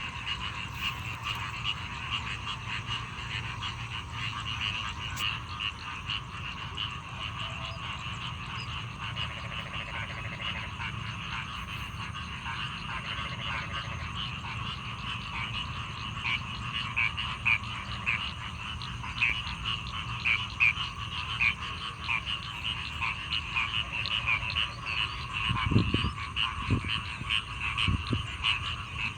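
A dense chorus of many frogs calling together, with short croaks repeated rapidly and overlapping throughout. A few low thumps come near the end.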